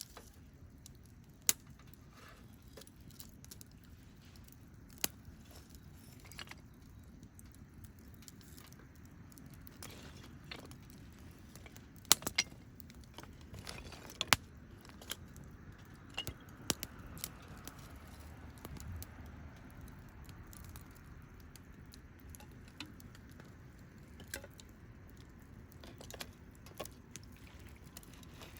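Campfire wood crackling and popping, with sharp irregular pops every few seconds over a low steady rush of burning.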